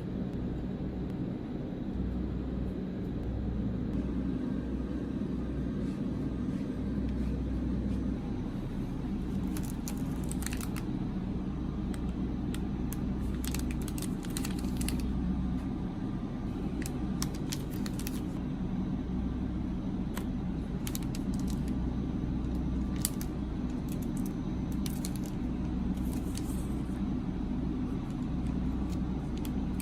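A steady low hum with scattered crinkles and clicks from snack packaging being handled, coming in irregular clusters from about a third of the way in.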